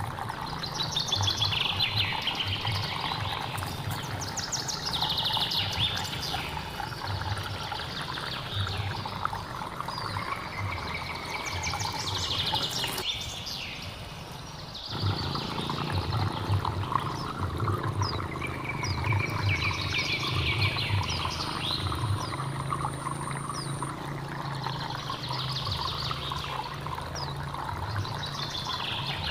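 A mountain stream flowing and trickling steadily, with a songbird singing the same short trilling phrase of falling notes over and over, about every three to four seconds.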